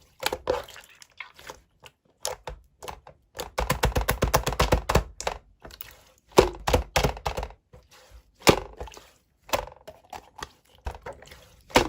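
Slime being squished and pressed by hand, giving a string of sharp pops and clicks, with a fast crackling run of clicks from about three and a half to five seconds in.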